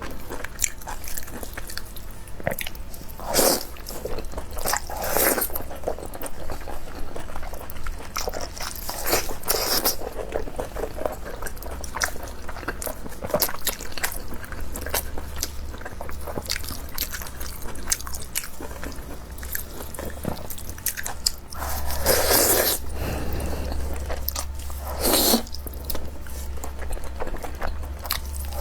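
Close-miked eating: a person biting and chewing food by hand, with many small wet clicks and smacks and several louder crunchy bites, over a steady low hum.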